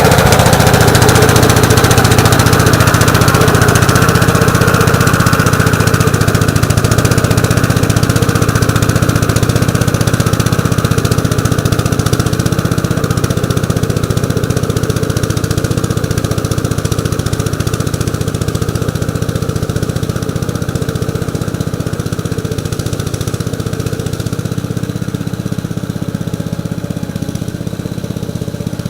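1948 Gravely Model L walk-behind tractor's single-cylinder engine running steadily, growing gradually quieter.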